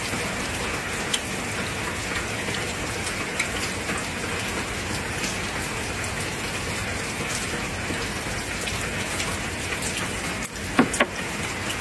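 Steady heavy rain falling outside, a constant even hiss. A few brief sharp clicks come near the end.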